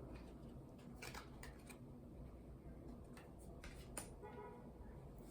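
Faint rustles and clicks of tarot cards being handled, over a low steady hum.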